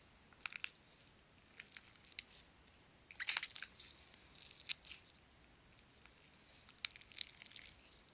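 Slime being squished and handled by hand, giving scattered small sticky clicks and crackles, with a denser burst about three seconds in.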